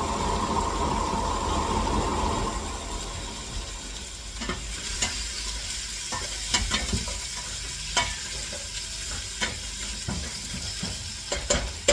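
Food sizzling in a frying pan while being stirred: a louder steady sizzle for the first couple of seconds, then from about four seconds in a utensil scraping and clicking against the pan over a quieter sizzle.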